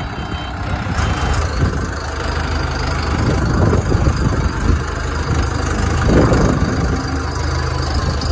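Engine of a self-loading concrete mixer truck running steadily, with a couple of louder swells partway through.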